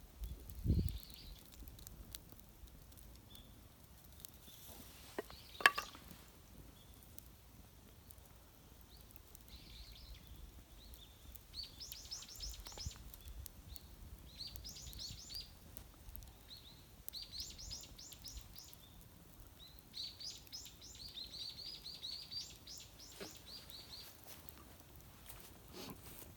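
Birds calling outdoors in quick runs of short, high chirps, repeated many times through the second half. A low thump sounds just after the start and a sharp knock about six seconds in.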